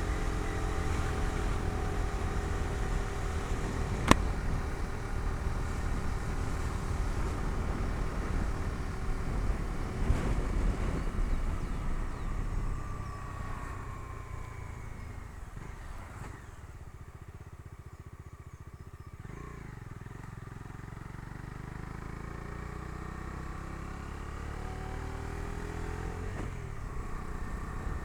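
Bajaj Dominar 250's single-cylinder engine heard from the pillion seat while riding, with road and wind noise. The engine note falls and goes quieter about halfway through, then slowly builds again near the end, with one sharp click about four seconds in.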